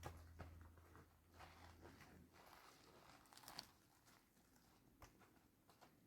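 Near silence: faint scattered clicks and rustles, with a low hum that fades out about two seconds in.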